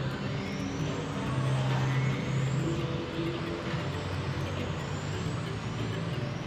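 Electric 1/10-scale VTA RC cars racing around the track, their motors whining up and down in pitch as they accelerate and brake, over a steady low hum of background noise.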